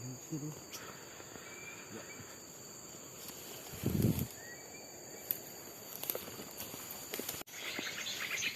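Steady high-pitched drone of crickets and other insects in scrub, with a brief low sound about halfway through. Near the end, small birds start chirping rapidly.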